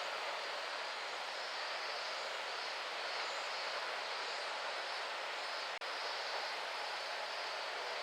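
Steady chorus of cicadas shrilling, with a slowly pulsing high band. It cuts out for an instant about six seconds in.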